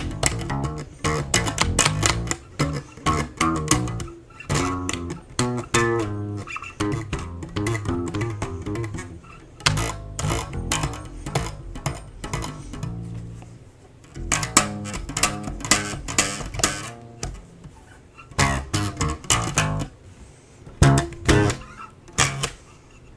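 Instrumental passage of a folk-punk song: guitar strummed and picked in quick strokes over a bass line, with no singing.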